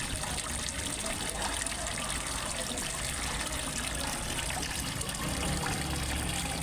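Water from a small waterfall trickling and splashing steadily into a fish pond.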